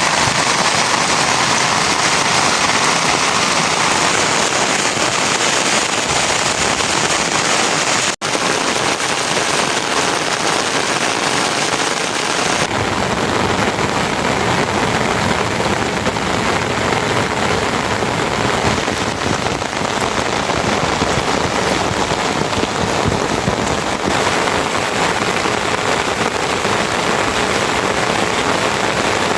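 Heavy rain falling steadily, a dense even hiss. It cuts out for an instant about eight seconds in and turns fuller and deeper at about twelve seconds.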